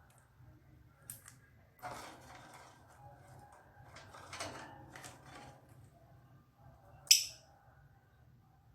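Pet lovebird being handled: scattered rustling and scraping sounds, and one short, shrill chirp about seven seconds in, the loudest sound.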